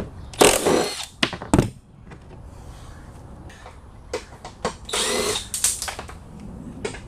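Milwaukee M12 3/8-inch cordless impact wrench run in two short bursts, about half a second in and again about five seconds in, with metal clicks and knocks of tools being handled in between.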